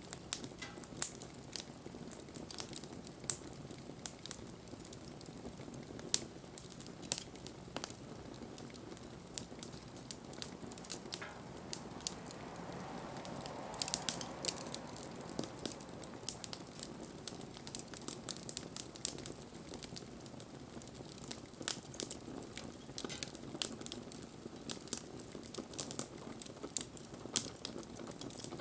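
Wood bonfire crackling, with irregular sharp pops and snaps over a low steady rush of flame, and a soft whooshing swell near the middle.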